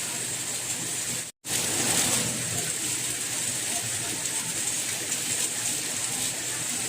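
Steady rain falling, an even hiss. It cuts out completely for an instant about a second and a half in, then carries on.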